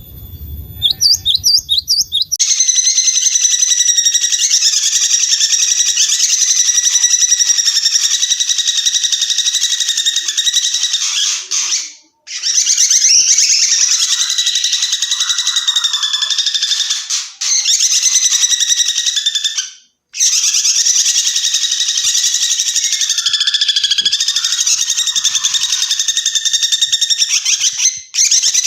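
Recorded songbird song used as masteran: a dense, rapid, high-pitched chattering trill that runs almost without pause after a few rising whistled notes, broken three times by brief silent cuts.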